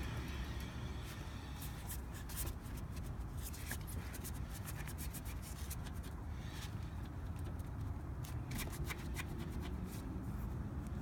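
Front right wheel bearing of a 2010 Toyota Tacoma being worked by hand, giving irregular scratchy clicks and ticks over a steady low rumble. It is the bearing noise the owner is checking for.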